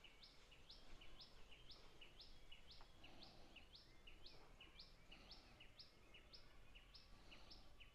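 Near silence, with a bird's faint high chirp repeating evenly about twice a second.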